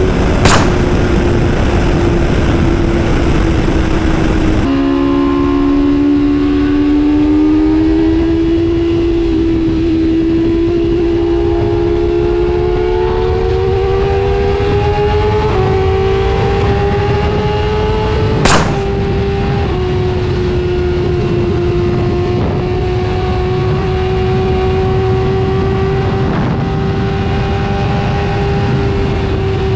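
Superbike engine holding a steady cruising note that slowly climbs in pitch, under heavy wind rush, with two sharp cracks: one just after the start and a louder one around the middle.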